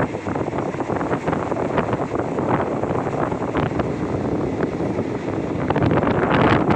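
A train running along the line, with a continuous rumble and many irregular clicks and knocks from the wheels and track, under heavy wind noise on the microphone.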